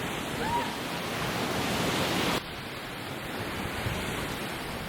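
Steady rush of sea surf and wind on the microphone, cutting abruptly to a quieter, duller rush a little over halfway through.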